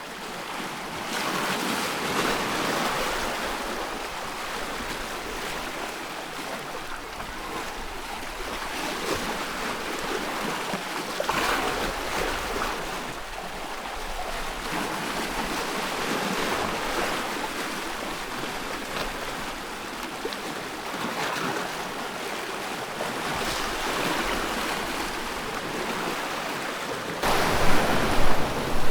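Ocean surf: a continuous rush of waves with swells every few seconds, turning suddenly louder and choppier near the end as heavier surf breaks.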